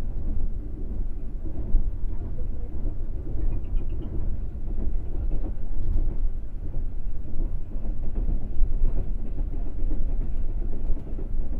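Green Line passenger train running at speed, heard from inside the coach as a steady low rumble.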